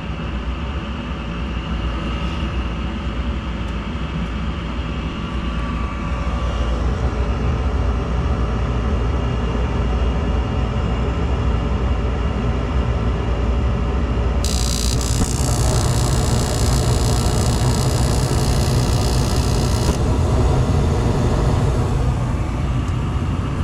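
Gas furnace starting up: the inducer fan motor runs with a steady hum, then about fifteen seconds in a hiss starts and the burners light with a low rumble that carries on after the hiss stops near the twenty-second mark.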